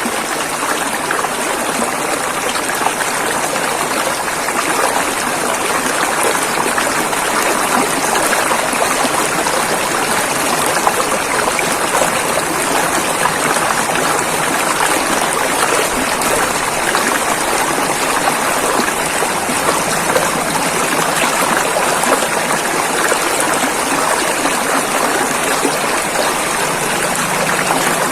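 River water flowing: a steady, even rush of running water that holds constant throughout.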